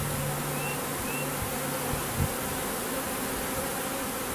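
A swarm of honeybees buzzing steadily as it moves into a hive box. There is a single brief knock about two seconds in.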